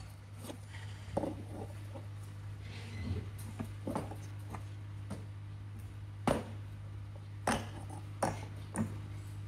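Scattered light clicks and knocks of tools and metal parts being handled, over a steady low hum; the two sharpest knocks come past the middle.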